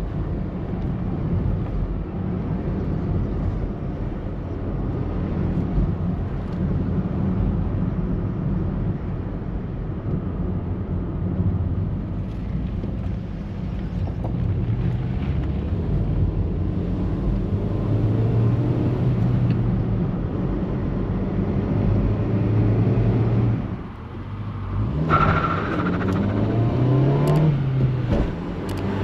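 Peugeot 306's 1.6-litre 8-valve petrol engine running steadily under way, with road noise. About five seconds from the end the engine note dips briefly for a gear change, then climbs as the car accelerates, and drops again just before the end.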